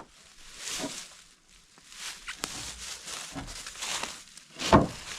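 Footsteps and rustling, with a sharp click about two and a half seconds in and a heavy thump near the end, the loudest sound.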